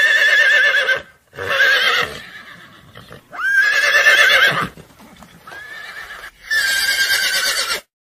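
A horse whinnying in five separate calls, each about a second long, with a quavering pitch. The fourth call is fainter than the rest.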